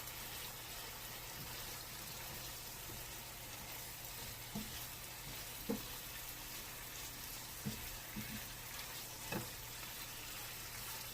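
Thin pieces of chicken thigh sizzling in a frying pan: a steady hiss of frying, with a few light knocks scattered through it.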